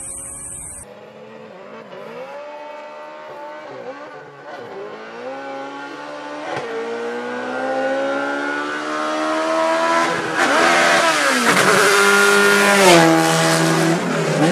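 Car engine accelerating hard through the gears in a drag race. The pitch climbs and then drops at each of several gear changes, and it grows much louder from about ten seconds in as the car nears.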